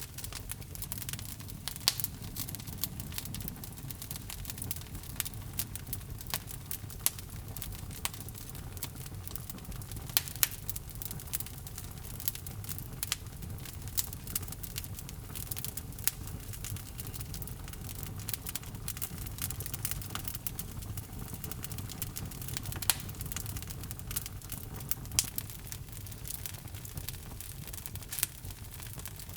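Log fire burning in a fireplace: a steady low rumble of flames with irregular sharp crackles and pops from the burning wood, a few of them much louder.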